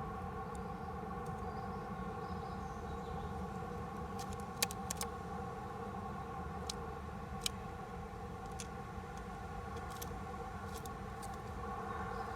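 A steady hum made of several held tones over a low rumble. A handful of sharp clicks or taps falls through the middle.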